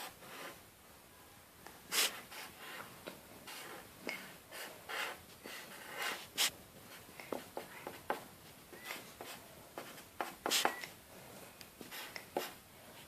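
Drawing on paper: short, irregular strokes of a drawing tool rubbing across a sheet, with a few louder strokes about two, six and ten seconds in.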